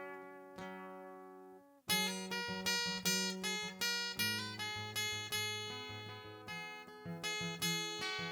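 Acoustic guitar strummed: a chord is left ringing, then after a brief break about two seconds in, a steady strummed rhythm of about two strokes a second.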